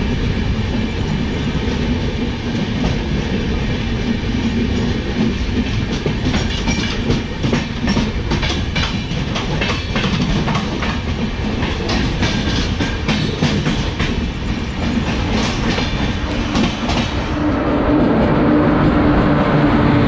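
Express passenger train running at speed, its wheels rumbling and clattering over the rails, heard from the coach doorway. From about six seconds in comes a dense run of clicks as it overtakes another train on the next track, easing off near the end.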